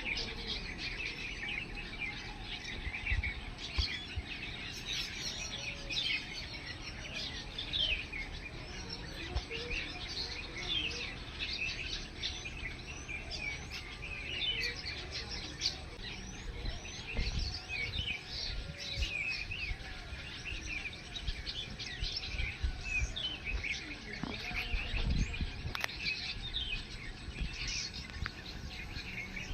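Many small birds chirping and twittering together, a dense run of short, high chirps and quick trills, with a few brief low bumps in between.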